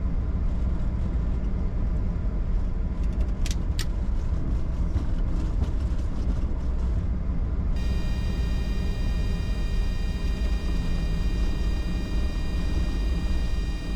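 Bombardier Challenger 605 on its landing roll, heard from the cockpit: a steady low rumble of the wheels and airframe on the runway. A set of steady high-pitched tones joins in about eight seconds in.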